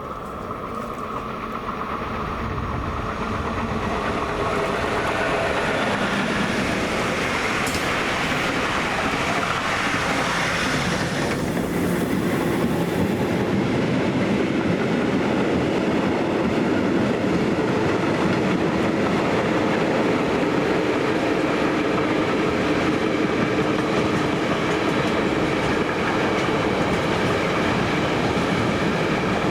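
A train passing on the line, its wheels clattering over the rails. It grows louder over the first few seconds, then runs on loud and steady as the long train goes by.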